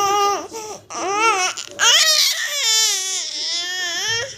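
A baby vocalizing in high-pitched, cry-like wails and squeals. There are a few short calls, then one long drawn-out wail from about two seconds in, ending near the end.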